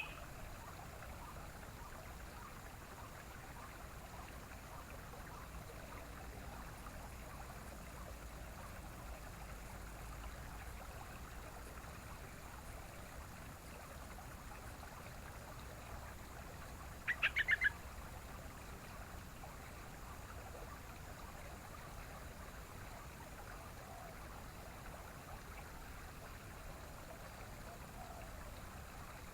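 Yellow-vented bulbul (trucukan) giving a short burst of about five quick chattering notes about two-thirds of the way in, over a steady faint background hiss.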